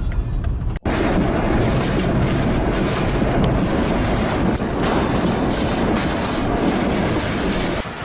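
Storm wind blowing hard against the microphone, a dense rushing noise that starts abruptly about a second in and cuts off shortly before the end.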